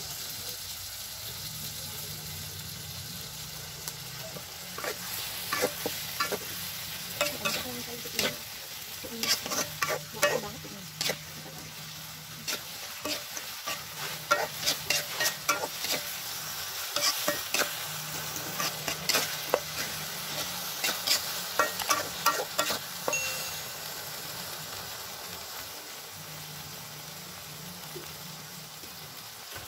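Grasshoppers frying in hot oil in a black wok, a steady sizzle. From about four seconds in until near the end, a metal spatula scrapes and knocks against the wok in quick clusters as they are stirred. The last few seconds are sizzle alone.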